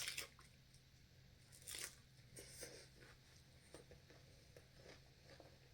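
Faint crunching of food being eaten: a few short crunches at irregular intervals, the loudest right at the start and about two seconds in.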